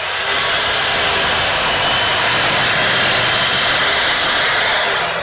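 Power saw cutting through a piece of wood: a steady, loud cut with a faint motor whine, easing off near the end.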